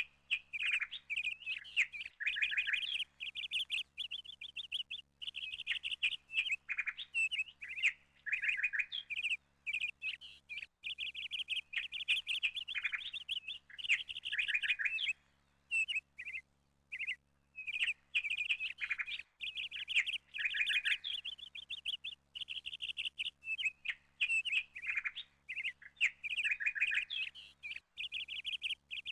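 Small birds chirping and twittering in quick runs of rapid, high notes, almost without a break, pausing briefly twice.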